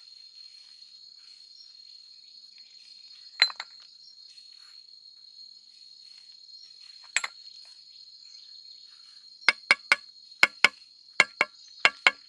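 Glass bottles knocking together in sharp, ringing clinks: a pair, then another pair, then a quick run of about nine near the end. Under them, insects keep up a steady high-pitched drone.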